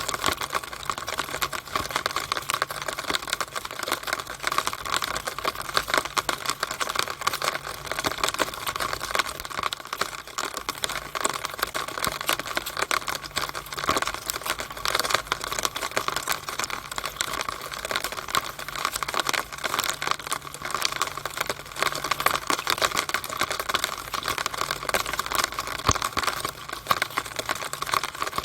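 Rainwater running down a drainpipe in the rain: a dense, irregular patter of drips and splashes inside the pipe, with a faint low hum underneath.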